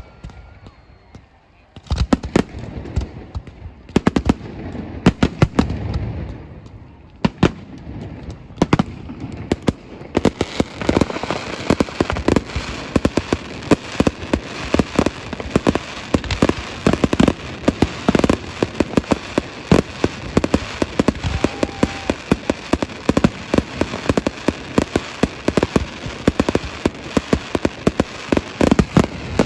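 Fireworks display: after a quiet couple of seconds, scattered loud bangs, then from about ten seconds in a dense, continuous barrage of rapid bangs and crackling.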